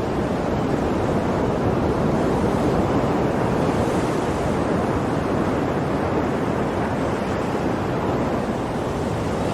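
Ocean waves breaking on a shore: a steady rush of surf.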